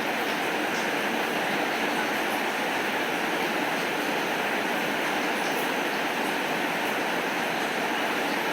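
Heavy rain falling steadily, an even hiss with faint scattered ticks of drops.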